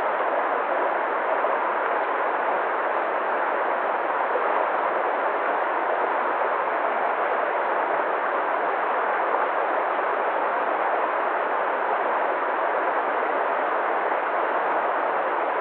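Waterfall: water falling in a steady, unbroken rush, even in level throughout, dull-toned with no high hiss.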